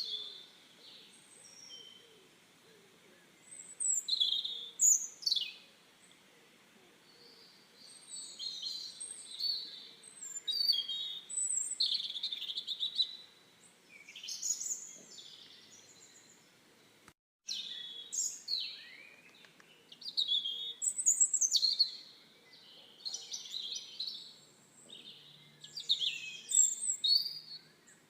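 Songbirds singing and chirping in short, quick, high phrases with pauses between them, the sound cutting out completely for a moment about two-thirds of the way through.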